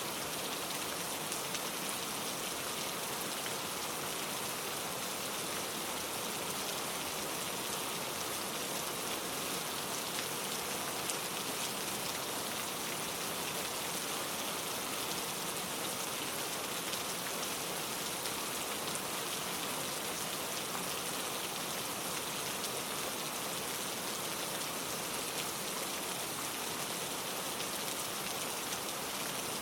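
Steady rain falling, a dense patter of drops on surfaces with no pauses.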